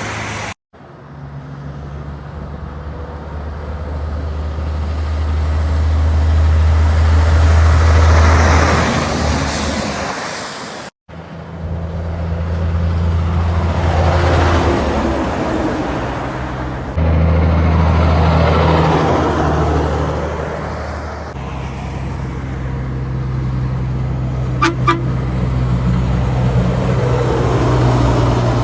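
Heavy trucks driving past one after another, their diesel engines swelling as each nears and fading as it goes. Near the end a truck gives two short horn toots.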